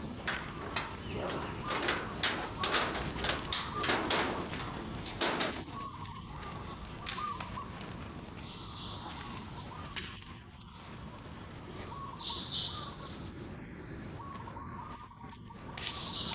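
Outdoor ambience of insects and birds calling, with a quick run of sharp clicks and rustles over the first five seconds.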